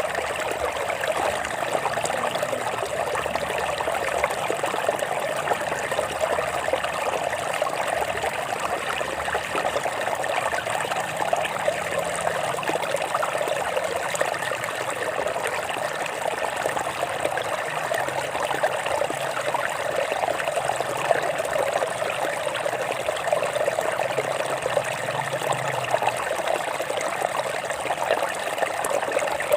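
Stream water flowing and trickling over rocks, a steady splashing rush.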